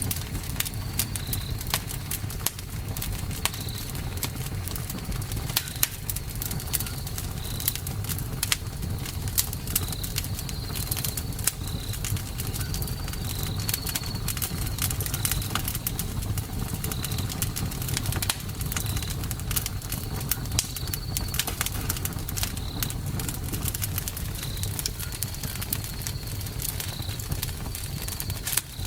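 Campfire crackling: frequent sharp pops and snaps over a steady low rumble of burning wood. Short high chirps recur every second or two.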